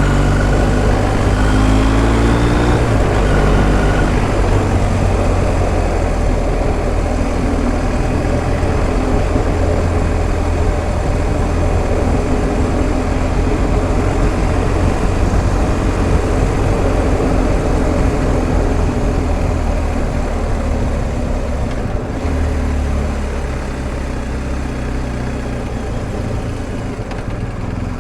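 BMW R1250 GS Adventure's boxer-twin engine running while riding, its pitch rising over the first few seconds as the bike accelerates, then holding steady under a constant rushing noise. It eases off and grows quieter a little over twenty seconds in.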